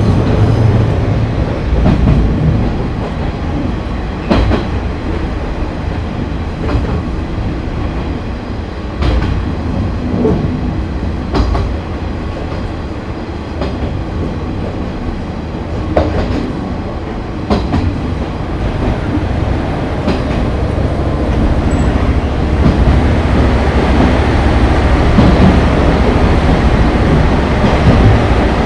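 Running sound of a KiHa 30 diesel railcar with its DMH17-series engine: a steady engine and rolling drone, with the wheels clicking over rail joints every few seconds. The running noise grows louder and brighter over the last third.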